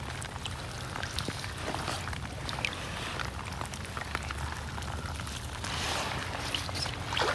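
Rain falling on the shallow standing water of a flooded swale, a steady patter of many separate drop ticks over a soft hiss, with a low rumble underneath.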